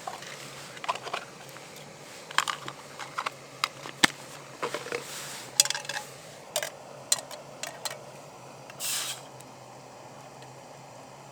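Camp gear being handled: a dozen or so irregular sharp clicks and clinks, with a short hiss about nine seconds in.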